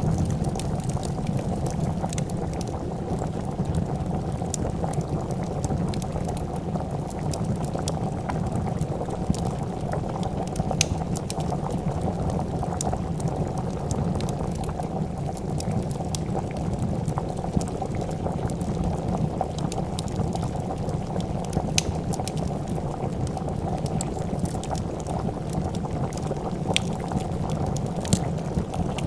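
A pot of soup boiling with a steady, dense bubbling, and scattered sharp crackles and pops from a wood fire.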